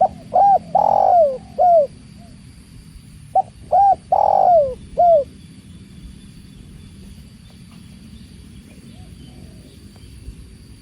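Spotted dove (tekukur) cooing: two loud phrases of throaty coo notes with a longer drawn-out middle note, the first at the start and the second about three seconds later, then a few faint notes near the end. Steady low running water can be heard underneath.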